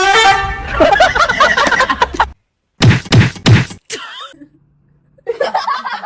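People's voices and laughter in short outbursts, stopping abruptly and starting again after brief silences.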